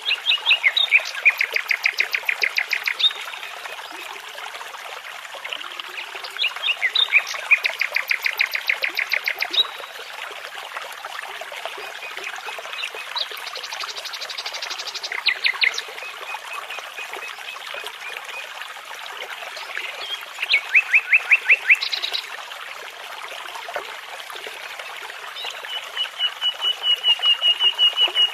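Nightingale singing in separate phrases of rapidly repeated notes with pauses between, the last phrase a long series of quick notes that grows louder. A brook babbles steadily underneath.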